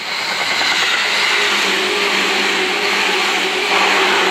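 Seibu 2000-series electric commuter train passing close at speed: a loud, steady rush of wheels on rail and running noise, which grows a little louder near the end.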